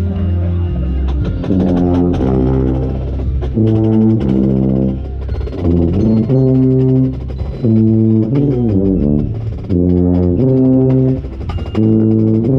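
Drum corps brass and percussion playing loudly, heard from inside the hornline with the low brass strongest. Punchy held chords about every two seconds, with drum hits between them.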